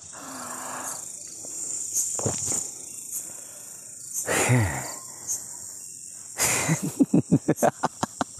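Night insects, crickets, chirring steadily in a high band. About halfway through a short sound falls in pitch, and near the end a run of quick rhythmic pulses starts.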